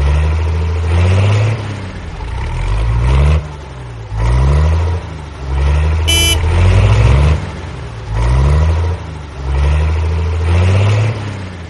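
Tractor engine revving in repeated surges, about one every two seconds, its pitch gliding up and down. A brief horn beep sounds about six seconds in.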